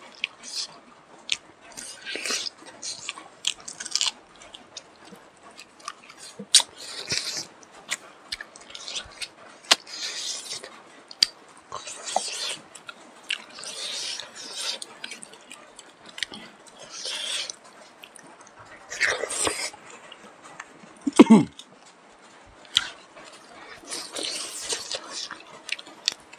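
Mukbang eating sounds: two people chewing and biting smoked pork and rice, in irregular short bursts every second or so, with scattered clicks. The loudest burst comes about 21 seconds in.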